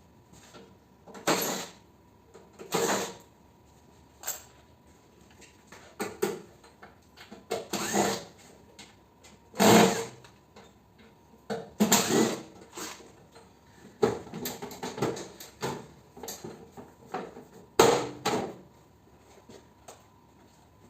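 Tool work on a mini-split air conditioner being taken apart for scrap: about a dozen short, irregular bursts of noise, with the loudest about ten seconds in and again near the end.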